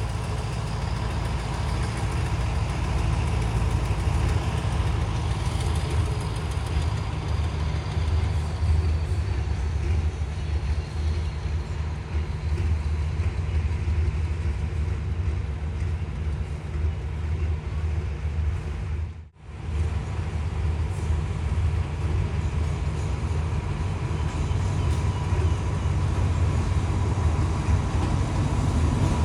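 Diesel train engine running with a deep, steady rumble. The sound cuts out for a moment about two-thirds of the way through and then carries on.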